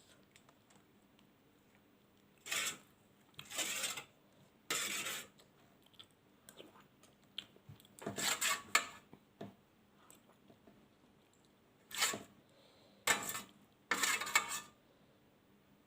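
Close-miked eating sounds: a string of short, separate bursts of chewing and food handled against a plate, with quiet gaps between them.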